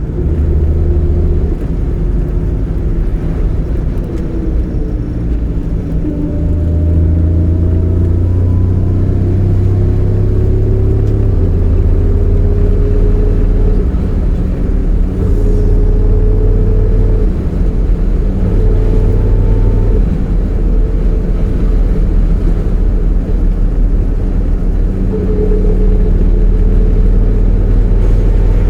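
Triumph TR6 PI's fuel-injected straight-six running with a steady low drone that shifts level every few seconds. A thin whine drifts slowly in pitch over it: the unidentified noise the owner suspects comes from the gearbox or overdrive.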